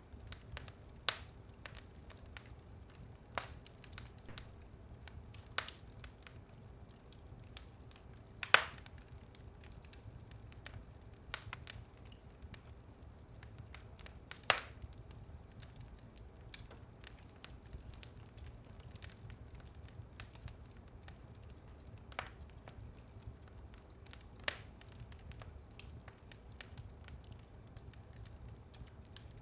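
Wood fire burning in a fireplace: a low steady rumble of flames with scattered sharp crackles and pops every second or few, the two loudest pops about six seconds apart near the middle.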